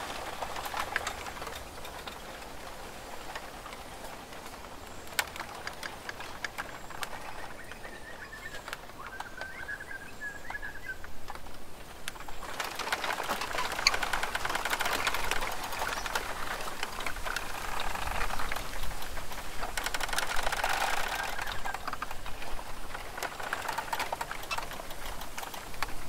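Birds at a backyard feeder: irregular taps and clicks with a short wavering call about a third of the way in, then longer stretches of dense rapid tapping.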